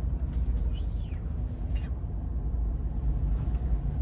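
Steady low rumble of storm wind buffeting the microphone over rushing seawater on a ship's deck, with a faint brief whistle about a second in.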